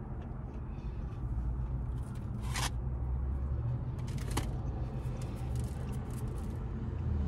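A person chewing a fried, breaded seafood bite, with a few short crunchy clicks, over the steady low hum of a car's interior.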